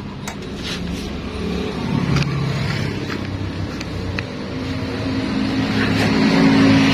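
Yamaha NMAX scooter engine running, growing louder and higher near the end.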